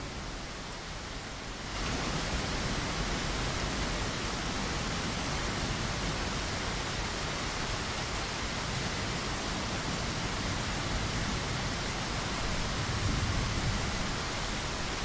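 Steady rain, an even hiss, stepping up louder and fuller about two seconds in.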